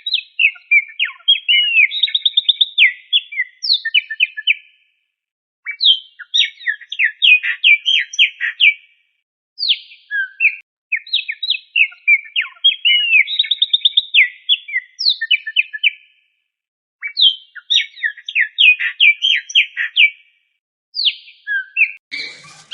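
Cockatiel whistling: runs of quick chirps and rising whistles in phrases of a few seconds, with the same phrase repeated several times and short pauses between.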